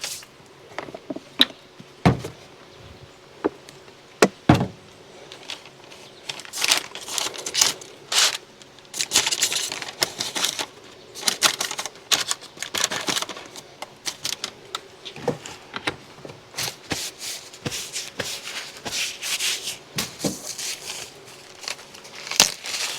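Irregular light clicks and crinkling from food and its packaging being handled during cooking preparation.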